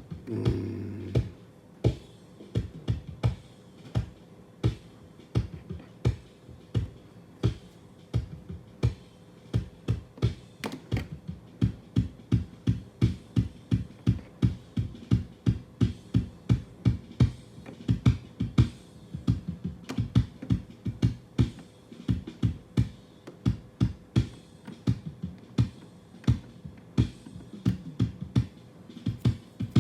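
Drum track playing back from a multitrack session, a steady pattern of punchy low kick-like hits about two to three a second, with a faint steady tone underneath.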